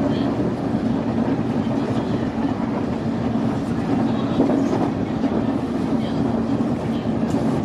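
Nankai Main Line electric train running at speed, heard from inside the front car: a steady running hum with a few faint clicks.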